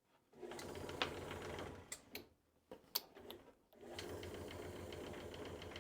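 Old electric motor driving a pulley-and-belt honing wheel, switched on: it runs briefly, goes quiet with a few sharp clicks, then starts again about four seconds in and runs steadily.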